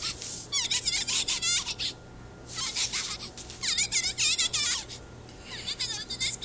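Runs of rapid, wavering high-pitched squeaks, three or four bursts each about a second long with short pauses between, over a faint steady low hum.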